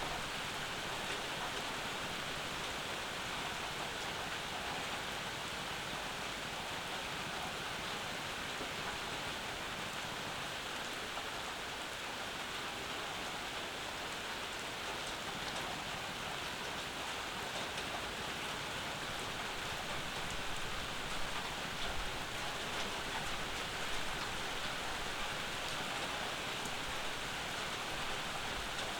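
Steady summer rain falling: an even, continuous hiss of rainfall, swelling slightly a few times about two-thirds of the way through.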